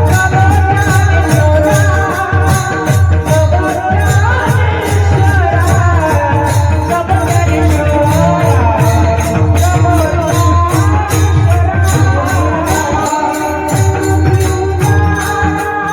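Marathi devotional singing, a wavering solo voice over steady held tones, with a low drum and small metal cymbals keeping a fast, even beat.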